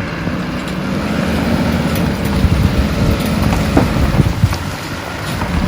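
Motor vehicles running: a steady low engine rumble.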